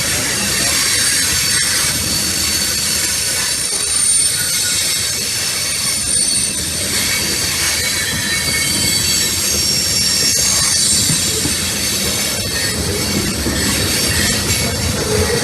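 Freight train cars rolling past, with steel wheels squealing against the rails in thin, high, shifting tones over a steady rumble, and a few sharp clicks from wheels crossing rail joints.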